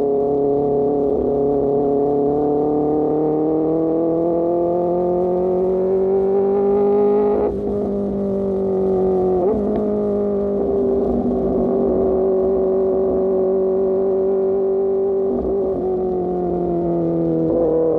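Superbike engine through an Austin Racing GP1R exhaust, heard from the rider's seat: revs climb slowly under throttle, then drop sharply about seven and a half seconds in as the throttle is shut for a gear change, and the bike settles into a steady cruise with a few small rises and falls in revs.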